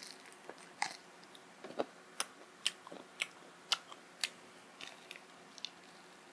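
Close-up biting and chewing of a crisp-coated fried chicken lollipop. There is a run of sharp crunches, about one every half second, through the middle, with softer chewing crackles before and after.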